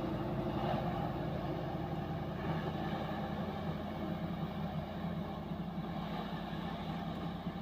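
Container truck's diesel engine running steadily under heavy load as the truck crawls slowly up a steep hill: a continuous low drone.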